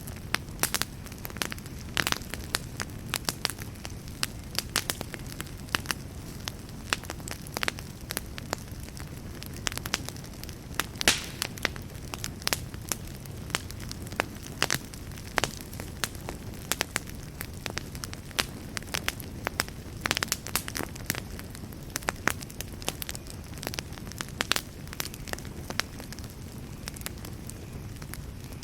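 Wood fire burning in a fireplace: a steady low rumble of flame with irregular sharp crackles and pops of the burning logs, one louder pop about eleven seconds in.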